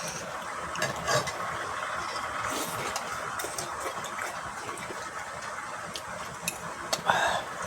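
Someone eating noodles in tom yum soup from a bowl: a steady soft noise broken by a few light clicks of spoon or utensils on the dish, with a louder brief noise near the end.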